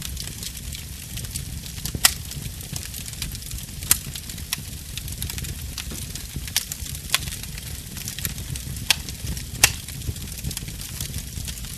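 Burning wood fire crackling, with many small snaps and a few sharp pops standing out, about two and four seconds in and again near the end, over a steady low rumble.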